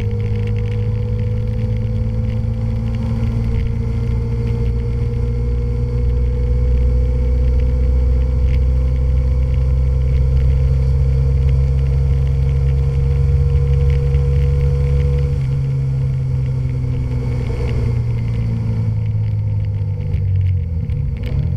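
Honda Varadero V-twin motorcycle engine running at a steady cruise with low rumble, heard from a camera mounted on the bike; the engine note holds steady, then drops off and lowers about three quarters of the way through.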